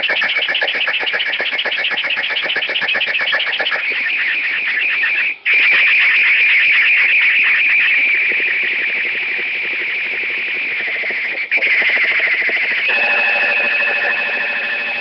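Computer text-to-speech voice fed strings of characters, making a rapid buzzing, stuttering stream of synthetic sound instead of words. It drops out briefly about five seconds in and again near eleven seconds, and a steadier held tone comes in near the end.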